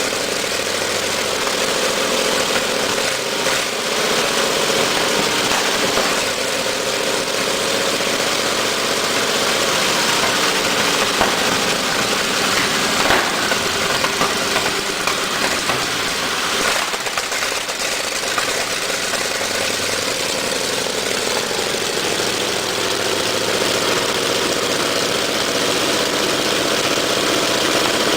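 Sherman tank's Continental radial engine running steadily, its speed wavering slightly in the middle, with a couple of sharp clicks.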